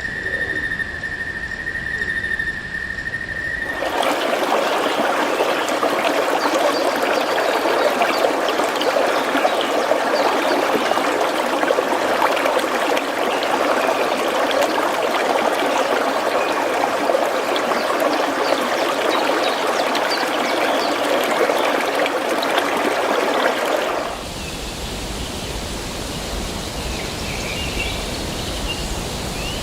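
Running water, like a stream trickling, in natural ambience. It is joined by a steady high whistle-like tone for the first few seconds. About 24 seconds in, it changes abruptly to a softer, wider hiss.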